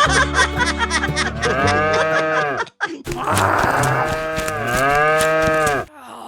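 A cow mooing: two long moos, the second beginning about three seconds in.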